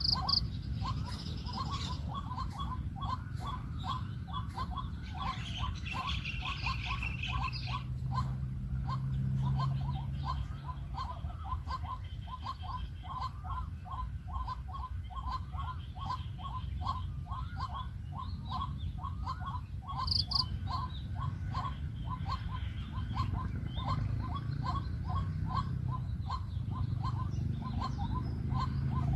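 White-breasted waterhen calling: a long, unbroken series of short repeated notes, about three a second. Brief higher chirps come in near the start and again about two-thirds of the way through.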